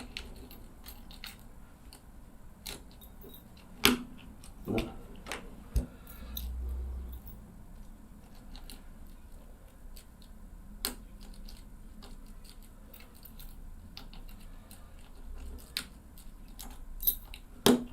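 Small clicks and taps of a key and plastic bracket being worked as the lock of a detachable motorcycle display mount is turned, with a few sharper knocks about four seconds in and near the end. The lock does not engage.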